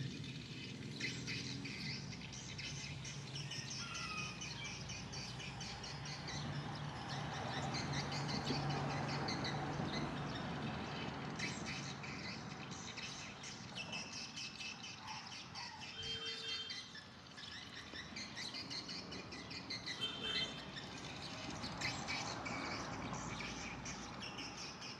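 Flock of swiftlets twittering: a dense, overlapping chatter of short high chirps and quick trills.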